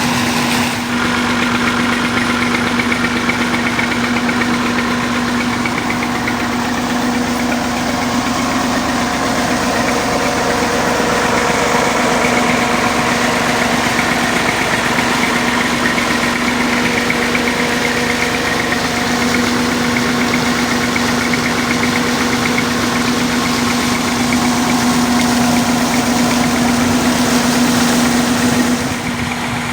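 Massey Ferguson 240 tractor's three-cylinder diesel engine running steadily at constant speed, driving a water-lifting system, with a steady mechanical hum and whine; it gets a little quieter just before the end.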